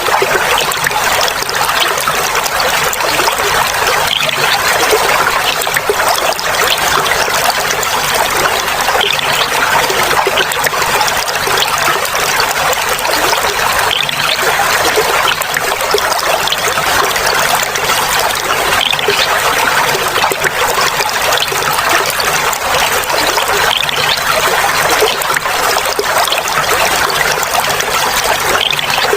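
Clear flowing water trickling and babbling steadily, an even, unbroken rush with no pauses.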